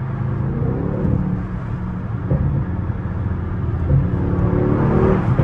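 Mercedes-AMG GLE 63 S twin-turbo V8 heard from inside the cabin at freeway speed, over tyre and road noise. The engine note rises a little under throttle about a second in and again near the end.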